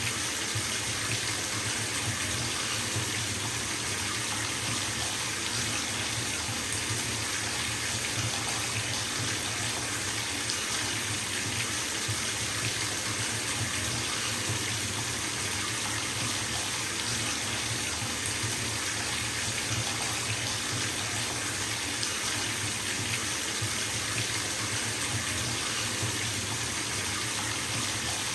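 Bathtub tap running steadily into a filling tub: an even, unbroken rush of water.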